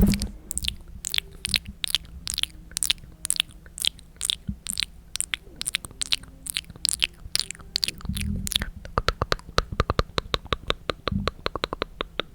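ASMR mouth sounds close to the microphone: a steady series of 'tk tk' tongue clicks, about three a second, which speed up to about six a second about three-quarters of the way through.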